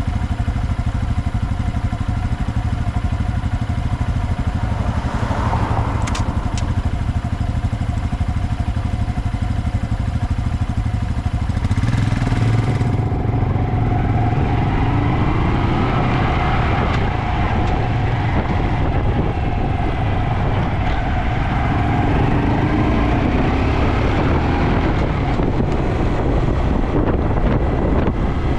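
Honda Dax 125's single-cylinder engine through a Takegawa normal-look sports muffler, running steadily at first. About twelve seconds in it gets louder and then rises and falls in pitch as the bike is ridden through the gears.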